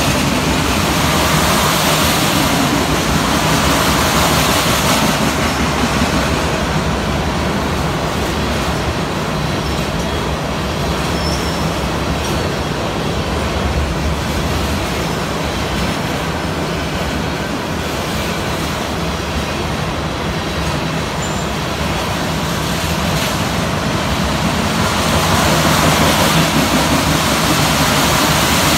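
Welded rail train's flatcars, loaded with long lengths of rail, rolling past: a steady rumble and rattle of wheels on the track that swells louder at the start and again near the end.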